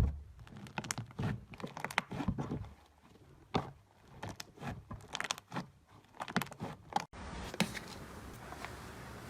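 Slime being squeezed and poked by hand, giving an irregular run of sticky clicks and pops. About seven seconds in it switches abruptly to a steady faint hiss with a few soft pops.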